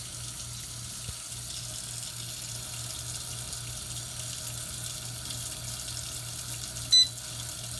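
Water running steadily from a tap, filling a folding portable washing machine. Near the end, one short electronic beep.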